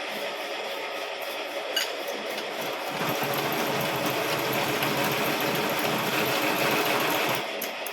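A machine motor running steadily. It grows louder about three seconds in and drops back just before the end, with a small click near two seconds.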